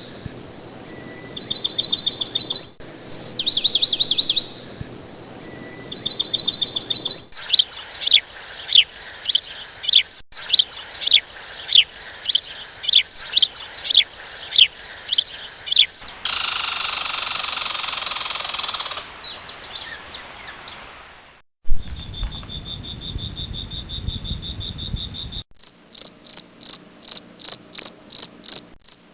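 Bird song and insect calls from separate recordings, cut abruptly from one to the next. First come repeated high trills, then a long run of quick chirps, then a few seconds of hiss. After that a steady high insect buzz, and near the end a fast, even insect chirping, several pulses a second.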